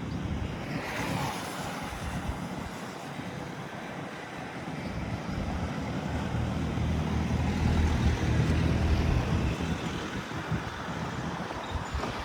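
A motor engine passing by with a low, steady hum, growing louder to a peak about two-thirds of the way through and then easing off, over outdoor wind and background noise.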